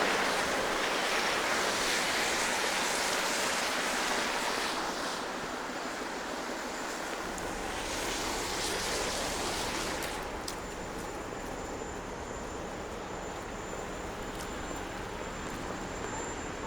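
Traffic hissing past on a wet, slushy downtown street: a loud wash of tyre noise that fades over the first few seconds, a second smaller swell about halfway, then a quieter steady street hum with a faint high whine.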